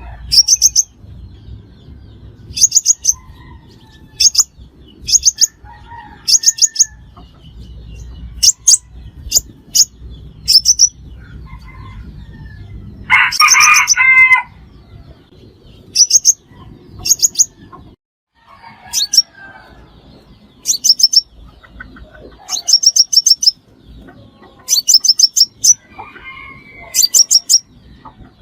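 Crimson sunbird calling repeatedly: short, high, thin bursts of three to five quick notes, one every second or two. A louder, lower call cuts across once about halfway through.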